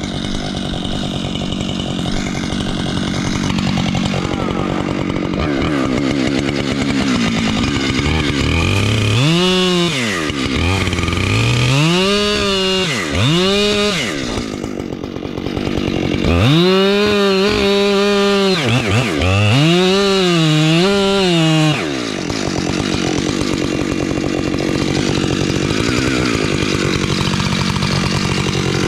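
Husqvarna chainsaw running, repeatedly revved up to high speed and dropped back, with several longer stretches held at high revs as it works through wood.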